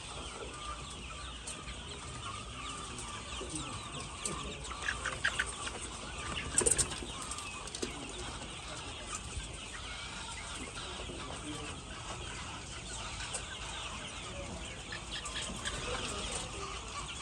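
A large flock of laying hens clucking and chattering steadily, many birds at once. There are a few louder calls around five seconds in and a brief, sharp clatter at about six and a half seconds.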